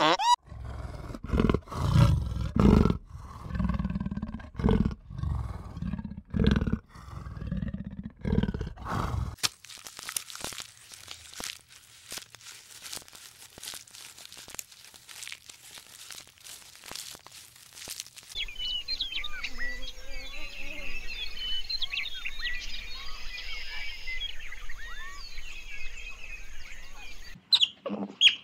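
Ostriches giving deep, low booming calls in a string of irregular pulses. About nine seconds in this gives way to a run of dry crunching clicks as a giraffe browses on leaves. From about eighteen seconds in comes a dense scatter of short, high chirping calls.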